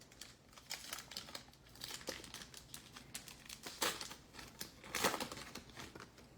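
The wrapper of a 2021 Absolute Football trading-card pack crinkling and crackling as it is torn open and handled. Irregular crackles run throughout, with a couple of louder ones past the middle.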